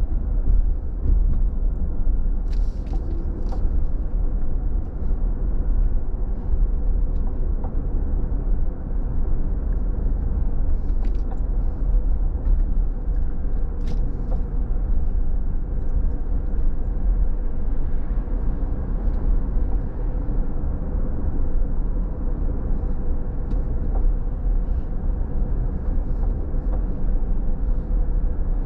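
Car driving along a road: a steady low rumble of engine and tyres, with a faint steady hum, and a few brief light clicks.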